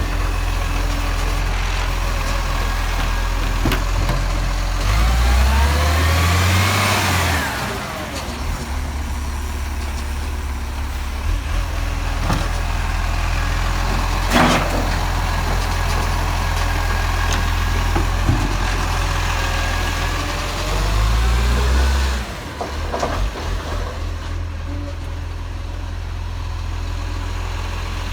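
Garbage truck's diesel engine running at a steady low drone. It revs up twice with a rising whine, and there are a few sharp knocks in between.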